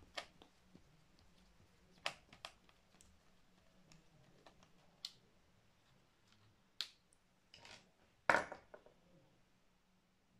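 Scattered small clicks and taps of a screwdriver on the laptop's battery screws and plastic case, about eight in all, the loudest a sharp knock about eight seconds in.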